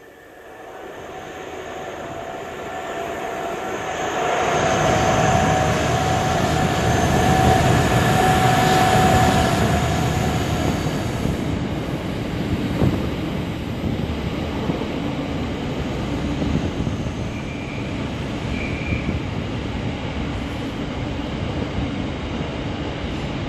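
Diesel-hauled freight train passing: the locomotive grows louder over the first few seconds and is loudest about 5 to 10 seconds in, then comes the steady rumble and clatter of wagons rolling by, with two short high squeals near the end.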